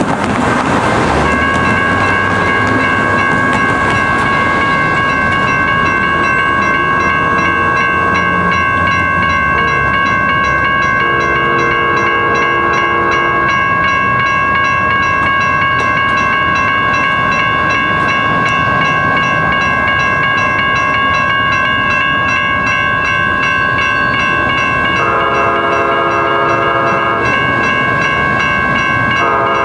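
Sounder commuter train with its horn sounding long chord blasts, about 11 s in, about 25 s in, and again just before the end. Under it a bell rings steadily and the train rumbles.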